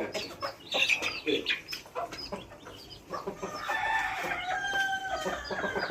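Chickens clucking and pecking, with short sharp taps. A rooster crows once in the second half, a held call of about two seconds.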